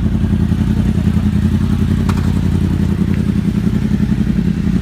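2015 Yamaha R1's crossplane inline-four idling steadily through a Two Brothers aftermarket exhaust, with a deep, even pulsing note.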